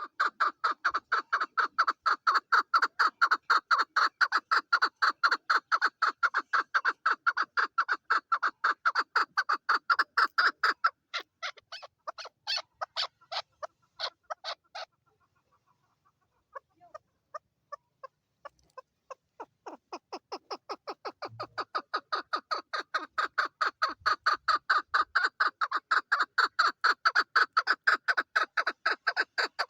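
Female chukar partridge calling: a fast, even run of clucking notes, about five a second. Around the middle the run breaks up and stops for a few seconds, then starts again with scattered notes and builds back to the full rhythm.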